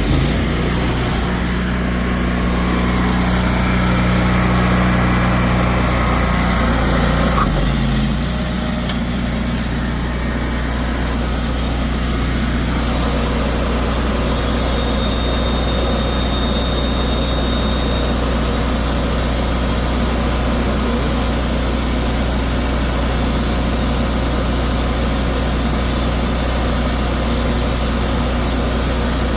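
Cook's sawmill engine running steadily after being throttled up, with a change in its tone about eight seconds in.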